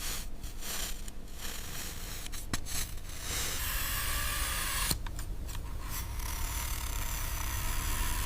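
Gritty scraping and rustling of sand as a toy construction vehicle is pushed through it, broken by a few short pauses.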